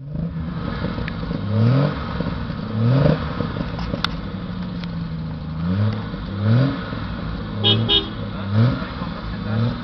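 Triumph GT6 MkIII's straight-six running at idle from the exhaust, with about six short throttle blips that rise quickly and drop back.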